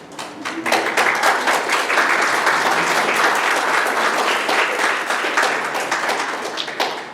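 Audience applauding: a few scattered claps, then full applause swelling about a second in and dying away near the end.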